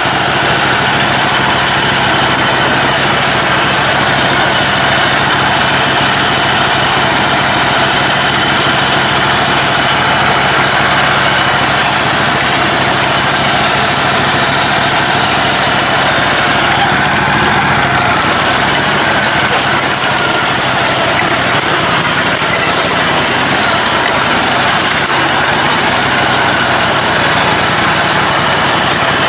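Lifted, modified riding mower's engine running steadily at low speed as the machine crawls along, its pitch shifting slightly about eighteen seconds in.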